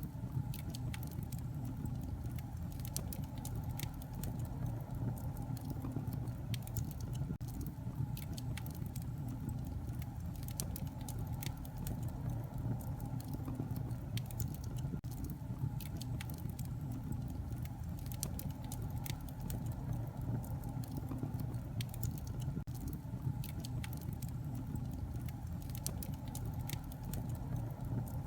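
Wood fire burning in a fireplace, with a steady low rumble and frequent small sharp crackles and pops at irregular intervals.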